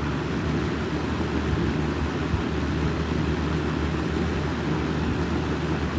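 Late-1960s Windsor by Lakewood S122 12-inch box fan running on high: a steady rush of air over a low motor hum. The owner puts the hum down to motor bearings somewhat gummed up from sitting unused.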